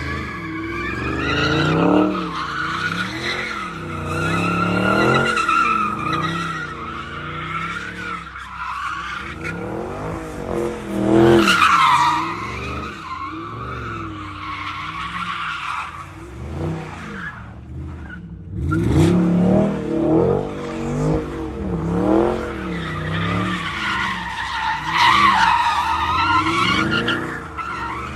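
Car engine revving up and down over and over while the tyres squeal and skid, as in donuts or a burnout. The high squeal wavers and swells, loudest about 11 seconds in and again near the end.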